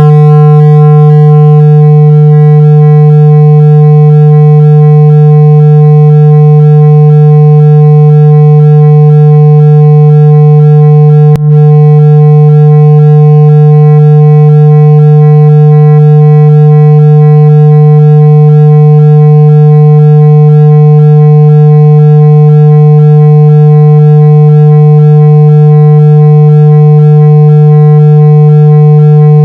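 Steady, very loud 165 Hz buzzing tone with a ladder of overtones above it, played to shake water out of a phone speaker. It is cut once by a brief click about eleven seconds in.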